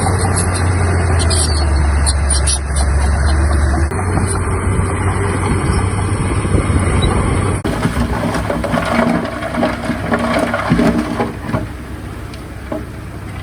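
Heavy earthmoving machinery running with a steady low engine drone. About eight seconds in the sound changes abruptly and turns rougher, with scattered knocks.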